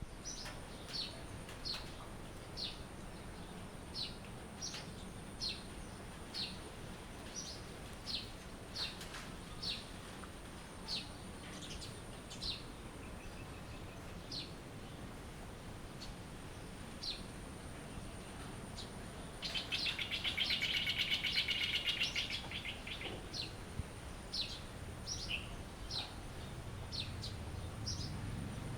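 Songbirds calling: one bird repeats short, high, downward-sweeping chirps about once or twice a second, and about twenty seconds in a louder, fast buzzing trill runs for some three seconds. A steady thin high tone sits underneath.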